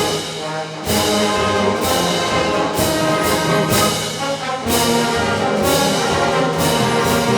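School wind orchestra playing a concert march, brass to the fore, with regular percussion accents about once a second.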